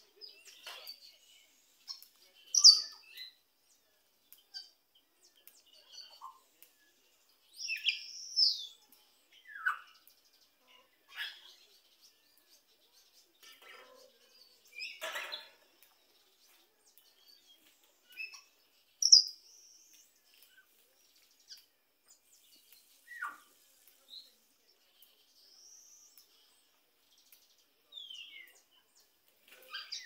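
Birds chirping and whistling in short, scattered calls, some sliding down in pitch and a few rising or arching, with two louder, sharp calls, one near the start and one about two-thirds through.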